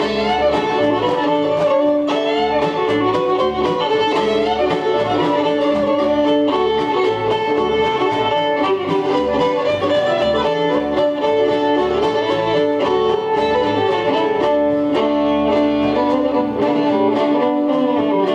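Instrumental break in an acoustic string-band song: fiddle playing long held notes over strummed acoustic guitar and a steady low beat.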